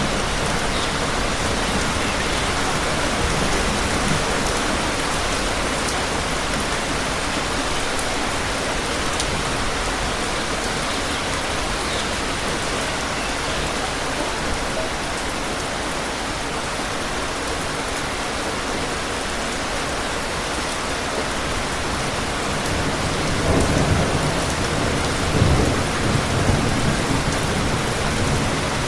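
Steady rain falling, with a low rumble of thunder near the end.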